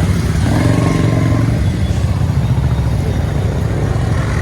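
Motorcycle on the road, engine running with a steady low rumble; a short pitched sound rises above it about a second in.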